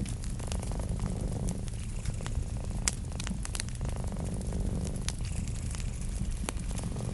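Wood fire crackling with irregular sharp pops, the loudest about three seconds in, over a cat's steady low purr.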